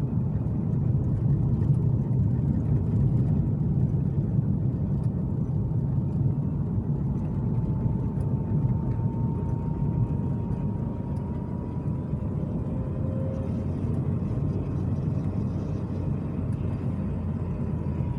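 Toyota Great Corolla driving: a steady engine and road rumble, with a faint high whine that drifts slightly upward.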